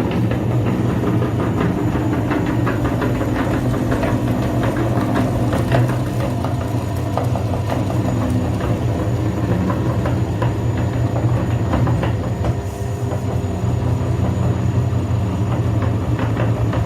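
A grinding machine's motor runs with a steady low hum, with constant irregular crackling and crunching as material is crushed in it.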